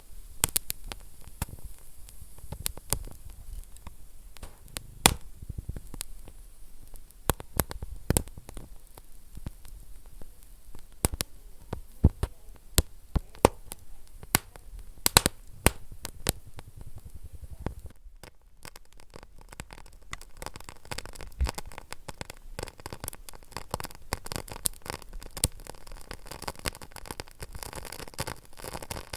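Wood fire burning in a fireplace, crackling with scattered sharp pops over a low rumble. About 18 seconds in, the sound changes to a denser hiss with smaller, quicker crackles.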